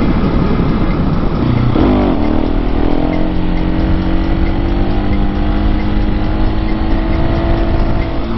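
Husqvarna 701 Supermoto's single-cylinder engine running under heavy wind noise on the microphone. About two seconds in the engine pitch dips and wavers as the revs change, then it holds a steady pitch.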